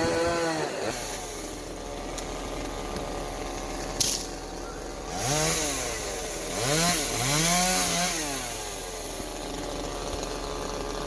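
Two-stroke chainsaw revving up and easing back several times, running at a lower speed in between, with one sharp click about four seconds in.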